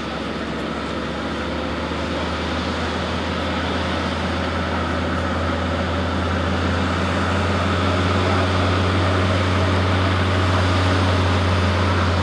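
Avro Vulcan XM655's Rolls-Royce Olympus turbojet engines running steadily with a deep hum and a few steady whining tones. The sound grows slowly louder.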